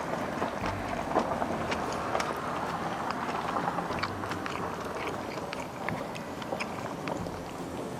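Someone chewing and biting food close to the microphone, with many small irregular clicks and crunches.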